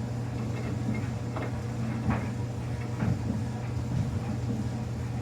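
Samsung washing machine running: a steady low motor hum with a soft knock roughly once a second as the drum turns the towels.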